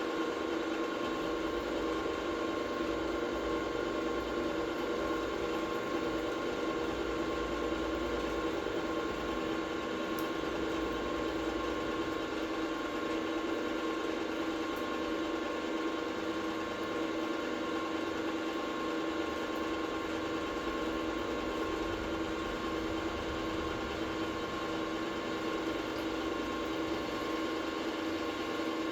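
Workshop machine's electric motor running steadily with a constant hum and whine.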